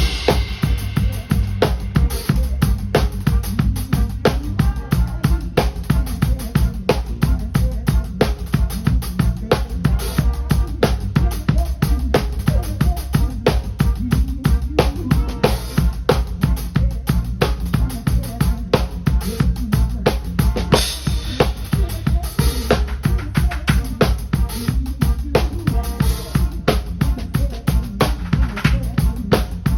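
Live band playing a song: a drum kit keeps a busy, steady beat of kick, snare and rimshots over a strong bass line.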